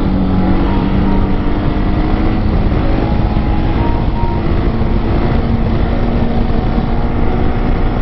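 Husqvarna 701 supermoto's single-cylinder engine running at a steady cruise, with heavy wind noise on the microphone.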